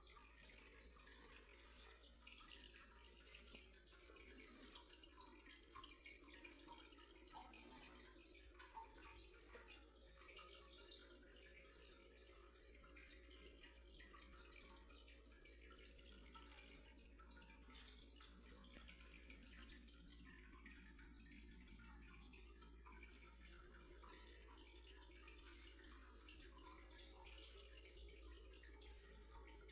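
Near silence: faint room tone with a low steady hum and scattered soft ticks.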